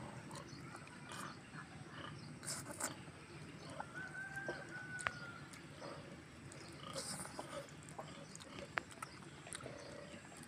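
Close-up eating sounds: wet chewing, lip smacks and small mouth clicks while eating chicken curry and rice by hand. A brief faint high tone is held about four seconds in.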